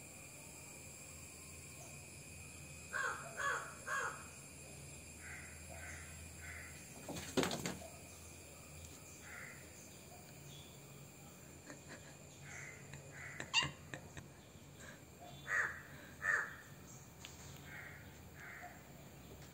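A bird calling outdoors: a quick run of three calls, fainter calls after, and two more near the end. Two sharp knocks fall between the calls, about a third and two-thirds of the way through, and these are the loudest sounds.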